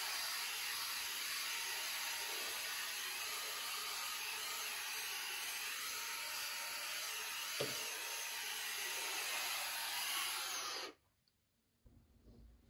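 Vacuum cleaner running with a steady whooshing hiss, then switched off about eleven seconds in. There is a short knock partway through.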